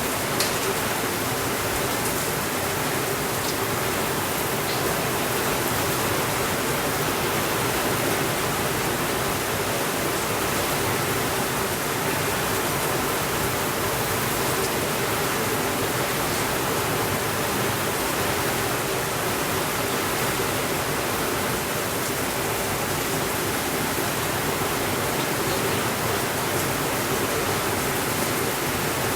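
Steady rainfall, an even hiss that never lets up, with a few faint crackles in the first few seconds.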